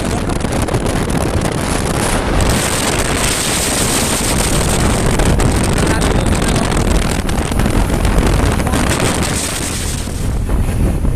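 Steady rushing wind buffeting the microphone while riding a moving motorbike, with a low rumble underneath.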